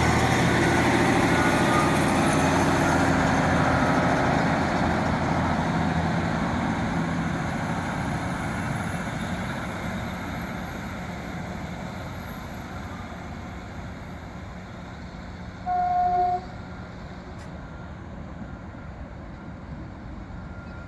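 Diesel multiple-unit train running, its engine and wheel noise fading steadily away. Near the end a train horn gives one short toot.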